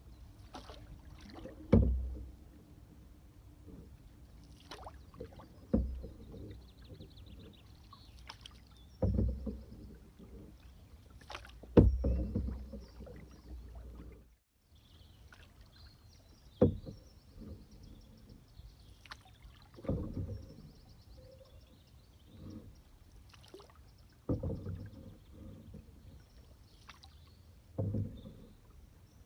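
Canoe on the water: a knock every few seconds, like a paddle striking the canoe's side, over low water sloshing.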